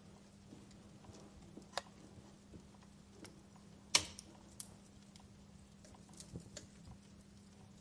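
Wood fire burning in a fireplace, crackling with scattered small pops and one sharp snap about four seconds in.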